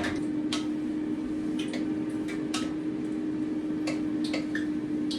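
Scattered sharp pops and clicks at irregular intervals, about a dozen, from hot frying oil heating in a pan. A steady low hum runs underneath.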